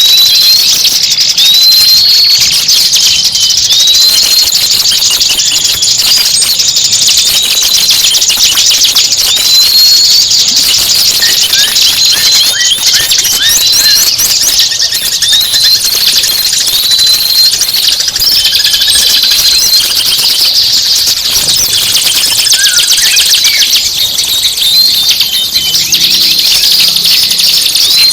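A songbird singing a loud, fast chattering song, with a short rising whistled note repeated every one to two seconds through most of it.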